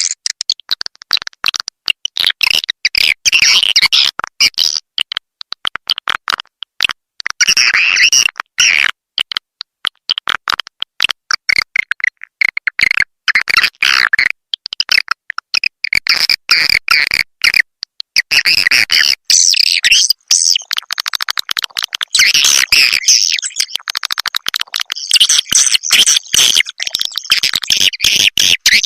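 Recorded edible-nest swiftlet calls, a lure track for swiftlet houses: loud, rapid, dense twittering and clicking chatter that comes in runs broken by short gaps.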